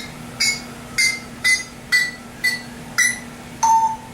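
African grey parrot mimicking an electronic beeping: a run of about eight short, evenly spaced beeps, roughly two a second, the last one lower and drawn out.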